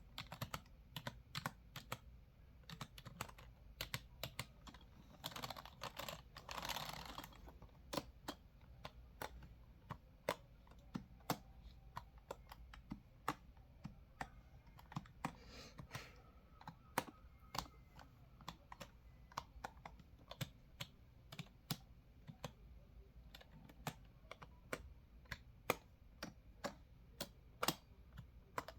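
Typing on a computer keyboard: a steady run of irregular key clicks, with a soft rushing sound lasting about two seconds about five seconds in.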